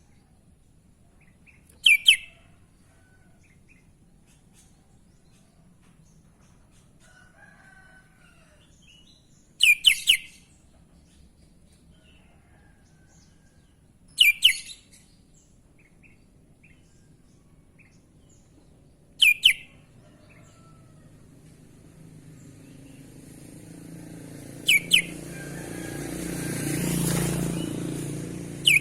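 Sooty-headed bulbul (kutilang) giving short, loud, sweeping calls, about six in all and spaced several seconds apart. Near the end a broad rushing noise swells up and fades.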